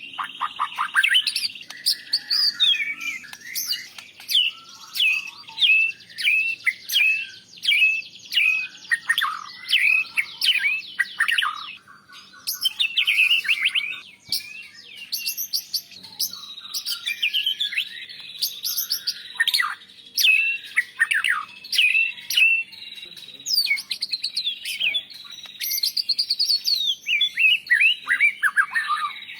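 White-rumped shama singing: fast runs of short, sweeping whistled and chattering notes, one phrase after another, with a couple of brief pauses midway.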